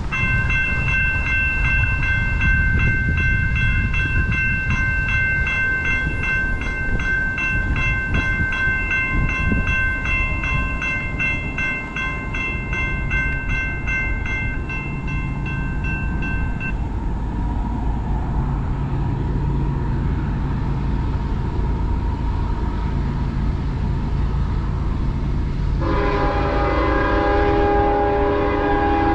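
A train rumbling past with a high bell ringing rapidly for the first half, then a locomotive's multi-tone horn sounding near the end.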